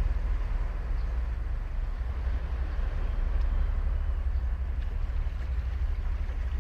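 Ocean surf washing onto a sandy beach, a steady wash of noise over a deep low rumble.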